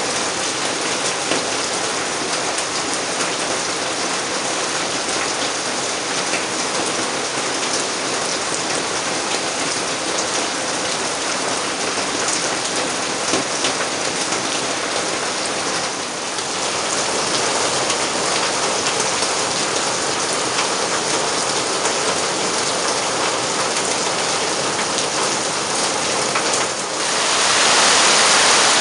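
Heavy tropical rain falling on palm fronds and broad jungle leaves, a steady dense hiss full of pattering drops that grows louder over the last couple of seconds.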